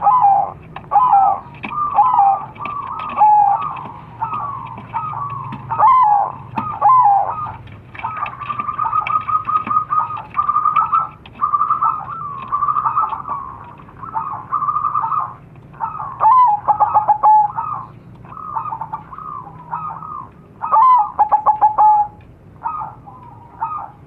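Crossbred zebra doves (perkutut) cooing in repeated rhythmic phrases, calling back and forth. About eight seconds in, one bird runs into a quick string of rapid notes.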